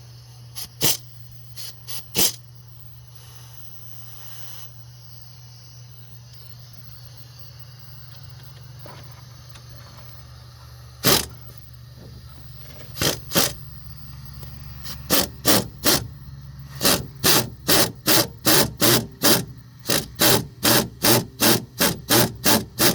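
Small ratchet clicking as the new wheel hub's mounting bolts are run in: a few scattered clicks at first, then a steady run of about two clicks a second through the last third. A steady low hum sits underneath.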